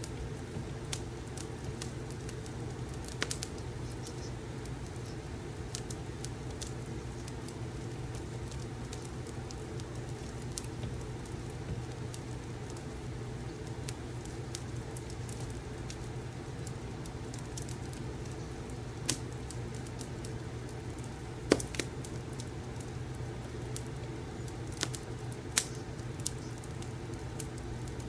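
Fireplace crackling: a steady low rumble and hiss with scattered sharp pops, the loudest about 21 seconds in.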